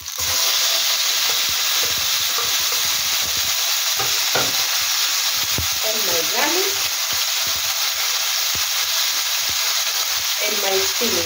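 Chopped fresh tomatoes hitting hot oil with fried onions and green pepper, setting off loud frying sizzle that starts suddenly and then holds steady. A wooden spatula pushes and stirs in the pan, adding a few soft knocks. The sizzle is the tomatoes' juice frying in the oil, which the cook stirs until it dies down.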